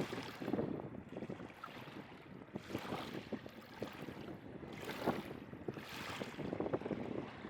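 Sea surf washing on the beach in swells about every two seconds, with a crackle of broken water and wind buffeting the microphone.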